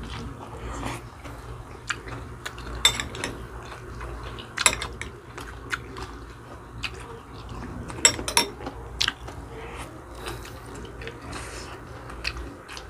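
People chewing and biting food: irregular sharp mouth clicks and smacks, a few louder ones about three, five and eight seconds in, over a low steady hum.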